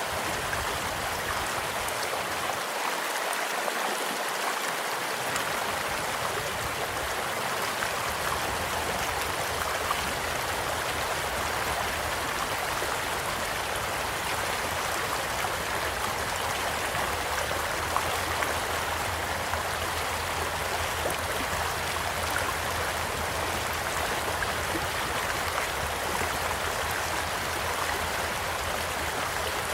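Small stream flowing steadily, an even rushing babble of water, with a couple of brief sharp pops from a crackling campfire about a third and two-thirds of the way through.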